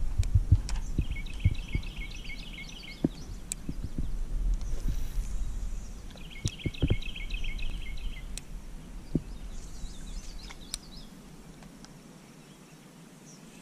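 A songbird singing a short, rapid trill twice, about five seconds apart, over scattered light knocks and clicks and a low rumble that fades near the end.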